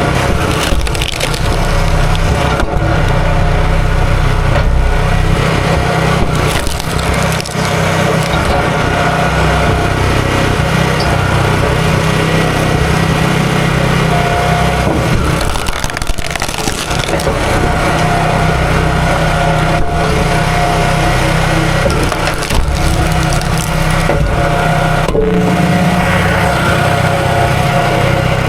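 Small gas engine running steadily under load while wood splinters and cracks.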